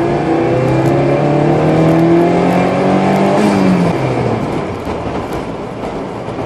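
Car engine accelerating hard in second gear from about 2000 rpm, its note climbing steadily for about four seconds. The revs then fall away suddenly as the throttle is released, leaving road and tyre noise.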